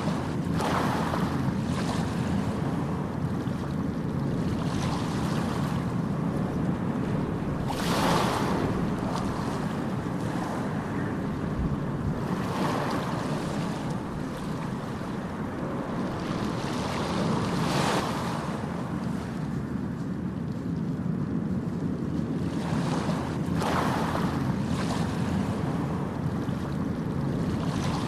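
Ocean surf: a continuous wash of waves, with a wave breaking more loudly every several seconds.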